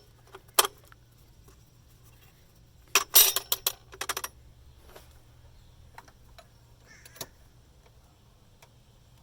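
Small metal hardware being handled while engine parts are refitted: a sharp clink less than a second in, then a quick cluster of clinks and rattles about three to four seconds in, with a few light ticks later.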